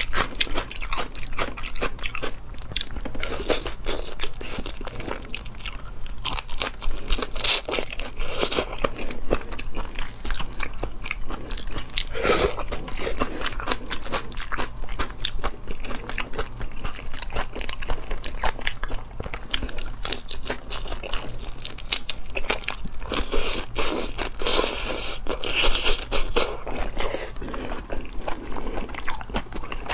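Close-miked crunching, biting and chewing of whole soy-marinated shrimp, a dense irregular crackle of bites with louder clusters now and then.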